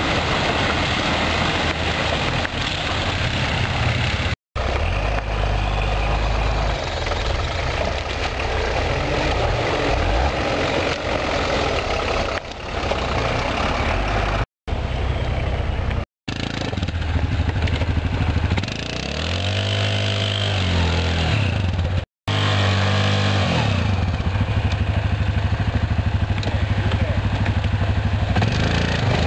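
Off-road 4x4 vehicle engines running through a string of short takes, with several brief dropouts to silence. About two-thirds through, an engine revs up and falls back.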